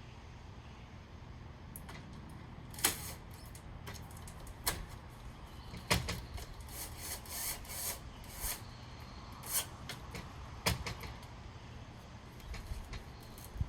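Scattered metal clicks and knocks, with some scraping, as a steel drawer slide and its bracket are handled and positioned against a door, over a low steady rumble.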